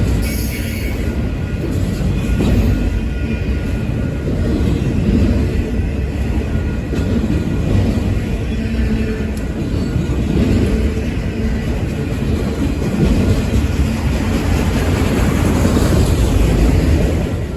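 A train passing close by: a loud, steady rumble of wheels on rail.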